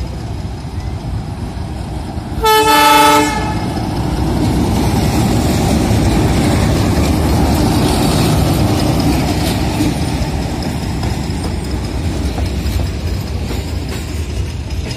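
Diesel locomotive gives one short horn blast about two and a half seconds in, then runs close past hauling passenger coaches: a loud, steady rumble of engine and wheels on rails. The rumble is loudest as the locomotive goes by and eases a little as the coaches follow.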